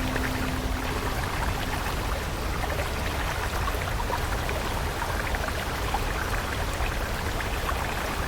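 Water stream flowing steadily with a constant rush and small scattered splashes and drips. A soft held music note fades out about a second in.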